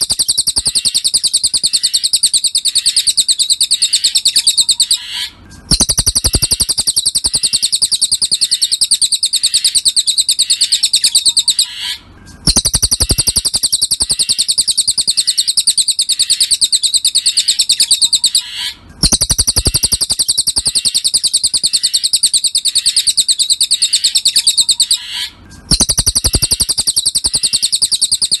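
Cililin bird song: a fast, unbroken string of high chirps. It repeats in stretches of about six and a half seconds with a brief break between them, a looped tutor (masteran) recording.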